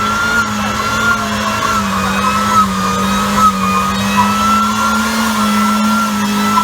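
Tuner car engine running steadily at a held, slightly wavering pitch, with a few small blips in level.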